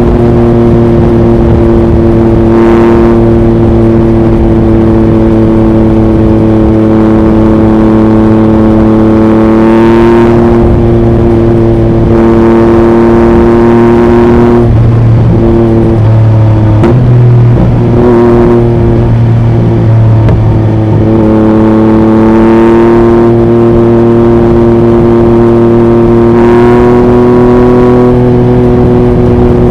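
2021 Yamaha MT-09's 890 cc inline-three through an Akrapovic racing exhaust, running steadily at highway cruising speed with wind noise on the microphone. About halfway through the note dips and breaks briefly, then settles back to a steady pitch.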